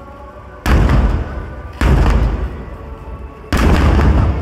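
Three deep booms of large aerial firework shells (shakudama) bursting overhead. Each is a sudden loud blast that rumbles away over about a second; the first two come about a second apart, and the third follows after a longer gap near the end.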